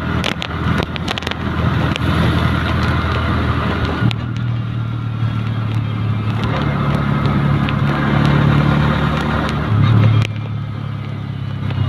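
Three-wheeled motorcycle's engine running while riding, its pitch stepping up and down a few times with changes of speed, with a few scattered clicks.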